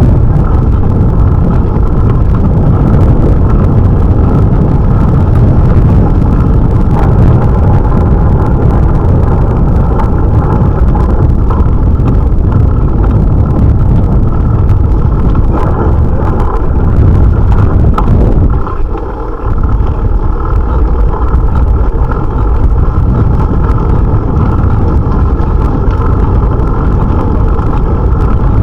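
Steady loud rumble of wind and road noise picked up by an action camera on a moving bicycle, dipping briefly about two-thirds of the way through.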